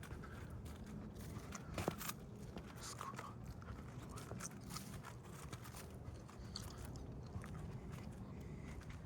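Footsteps crunching irregularly on the forest floor, with a sharper snap about two seconds in.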